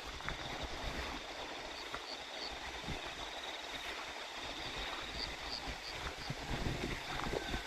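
Rice-field ambience: a steady high drone of crickets over flowing water, with wind rumbling on the microphone and a few short high bird chirps.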